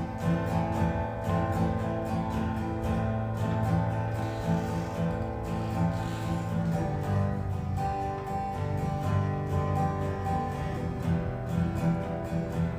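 Acoustic guitar strummed in a steady rhythm, the instrumental opening of a song before the vocals come in.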